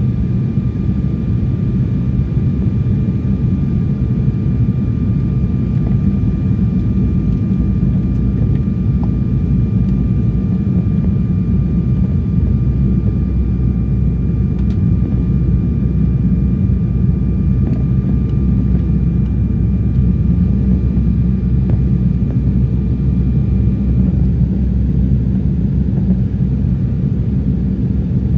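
Steady jet airliner cabin noise on the approach before landing: a constant rumble of engines and airflow, with a faint steady high whine above it.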